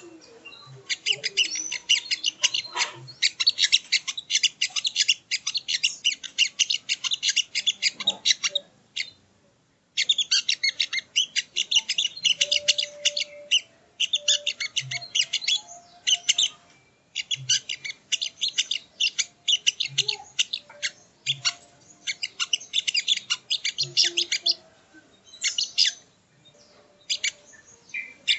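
Sogon (sogo ontong) songbird singing: long phrases of rapid, high chirps packed close together, broken by a few short pauses.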